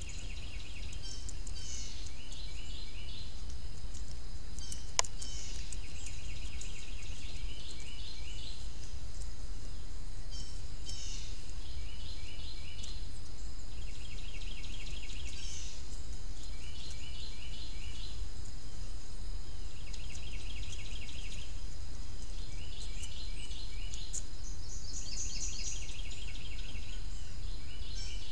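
Outdoor ambience of a songbird singing short trilled phrases every few seconds over a steady low rumble, with a faint steady high tone. A single sharp click comes about five seconds in.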